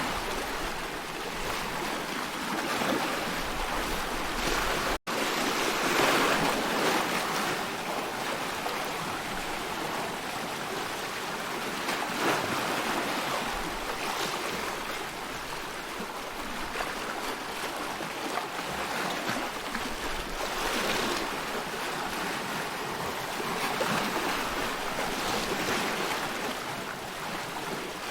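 Ocean waves washing, a steady rush that swells and eases every few seconds, with a split-second dropout about five seconds in.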